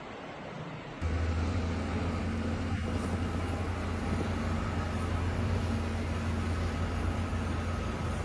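A motor vehicle's engine running steadily, a low even hum with a hiss over it, cutting in suddenly about a second in.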